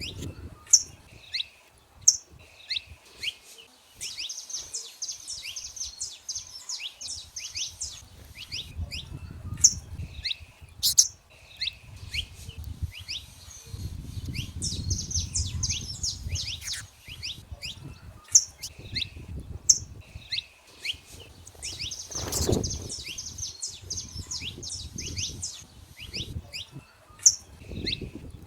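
Saffron finches singing in a steady stream of short, sharp, high chirps and trills, several birds overlapping. A low rumble comes and goes underneath, strongest about two-thirds of the way through.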